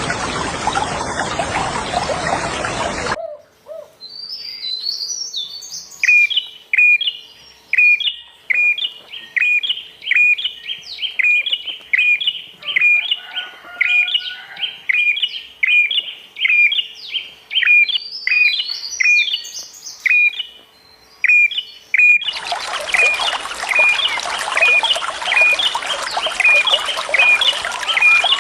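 A songbird repeating a short, sharp chirp about twice a second over a rushing water sound. The water cuts out about three seconds in, leaving the chirps alone, and comes back loud near the end.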